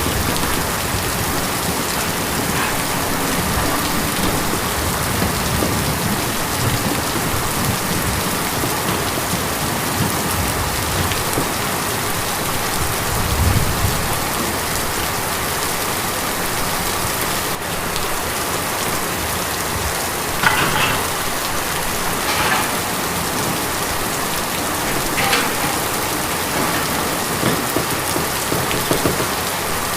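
Steady rain falling on a tin roof, with a few sharper, louder drop strikes in the second half and a low rumble about midway.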